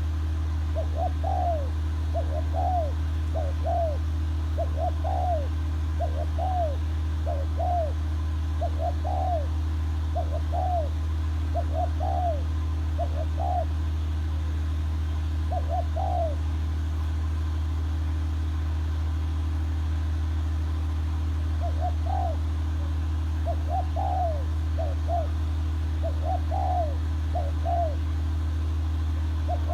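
A bird calling over and over in short arched notes, mostly in pairs. The calls stop about halfway through and start again a few seconds later. Under them runs a loud, steady low hum.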